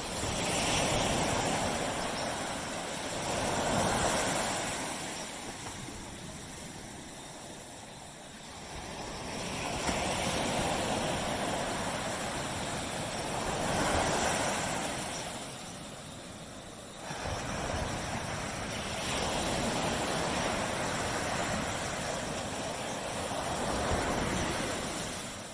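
Surf on a tropical beach: small waves breaking and washing up the sand, in rushing surges that rise and fall every four to six seconds.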